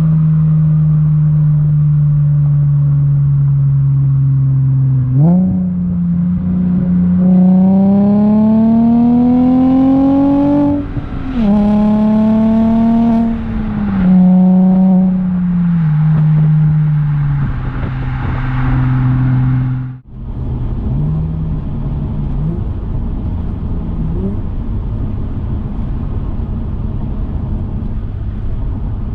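Audi A4 B6 3.0 L V6 running through a custom exhaust while driving: a steady drone at cruise, then the pitch climbs under acceleration, drops briefly and climbs again, and falls away as the throttle eases. After a sudden break about twenty seconds in, it settles into a lower, rougher rumble with a couple of short blips.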